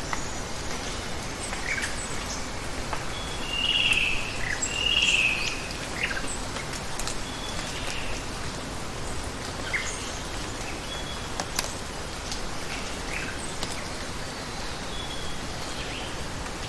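Steady hiss of water with birds chirping over it; two louder warbling calls come about four and five seconds in, with scattered sharp ticks.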